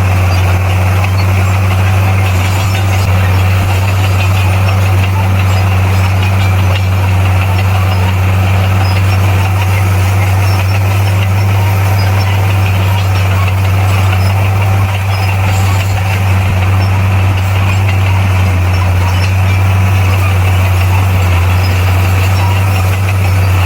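Crawler bulldozer's diesel engine running steadily: a loud, constant low drone with no change in pitch.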